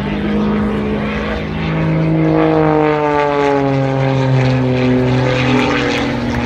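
Pitts S2 aerobatic biplane's piston engine and propeller running loud as the plane flies past. The engine note falls steadily in pitch for the last few seconds as it goes by.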